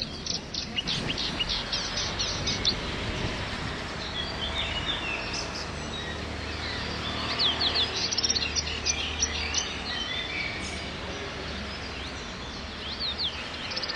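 Small songbirds singing: quick series of high chirps in the first couple of seconds, again around eight seconds in and near the end, over a steady low background rumble.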